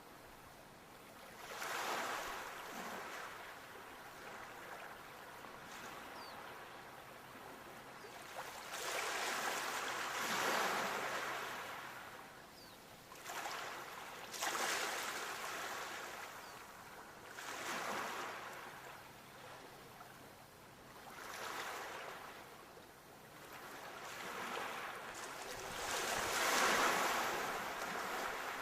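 Sea waves breaking in slow surges of rushing water, about six in all, one every three to five seconds, the loudest near the end.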